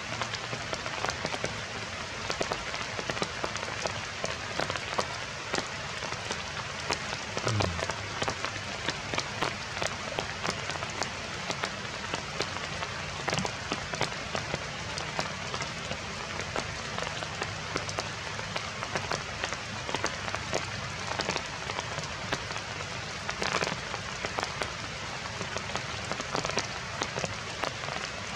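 Heavy rain falling steadily, with many close raindrops spattering. A brief low falling tone sounds about seven seconds in.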